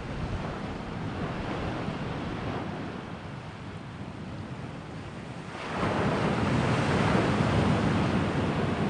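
Sea waves washing against the shore, rising into a louder surge a little under six seconds in.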